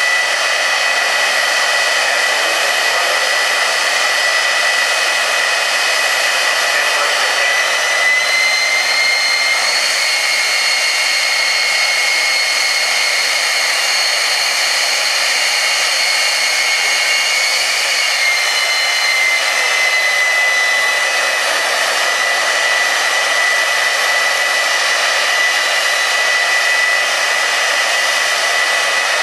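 Turbine engine of a jet-powered semi truck running steadily: a high whine over a rushing blast. The whine rises a little about eight seconds in and settles back down about ten seconds later.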